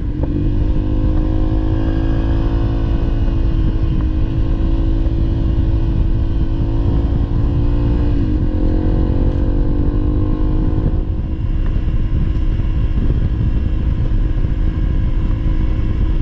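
Honda CRF300L single-cylinder engine running under way on a dirt trail, over a heavy low rumble. The engine note dips briefly about eight seconds in, then climbs again and holds steady.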